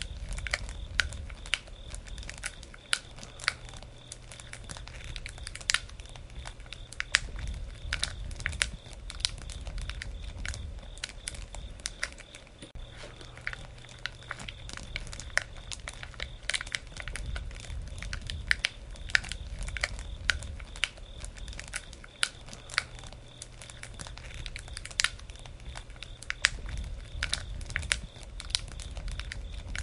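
Wood fire burning, crackling with many irregular sharp snaps and pops over a low rumble of flame that swells and eases every few seconds.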